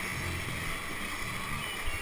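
Whitewater rushing around a kayak: a steady hiss of fast-moving water, with uneven low rumbling underneath.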